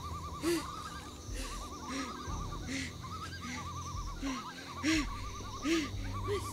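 Eerie night ambience: short hooting calls repeating every half second to a second over a fast warbling trill and a steady low hum, with a few short hissing bursts.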